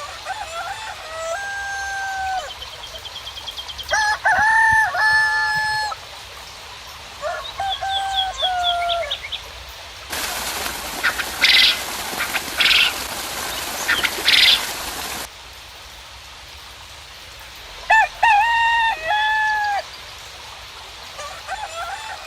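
A rooster crowing again and again, each crow a long pitched call of about a second and a half, with quick high bird chirps between the crows. In the middle a steady hiss starts and stops abruptly, with three short sharp sounds inside it.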